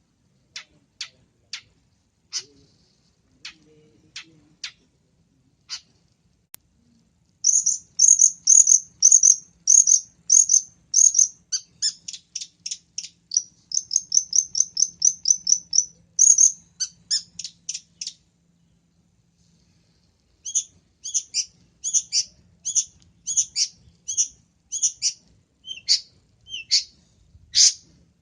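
Long-tailed shrike (cendet) singing with mimicked calls of other birds: a few spaced sharp calls, then a fast run of high chirps, a short break about two-thirds through, and another fast run.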